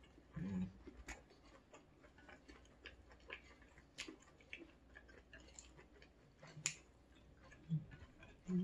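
Close-up eating sounds: soft chewing with small wet mouth clicks and smacks, and a few brief low hums.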